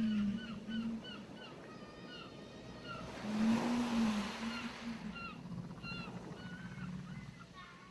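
Ocean surf with one wave washing in, swelling about three seconds in, under steady chirping of birds. Low, arching moans sound at the very start and again about three and a half to five seconds in.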